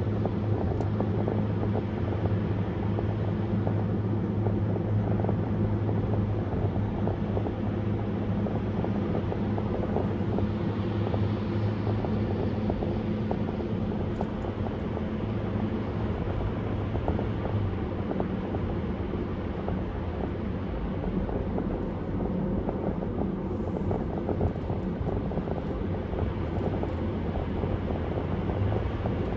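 Car cruising at a steady speed: a constant low engine drone under a steady rush of tyre and road noise.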